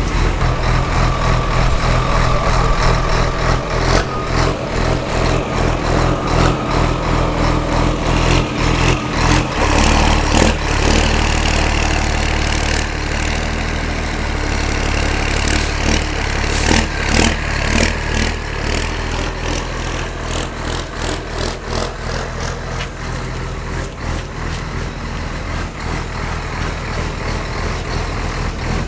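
Large truck engine running at a steady idle.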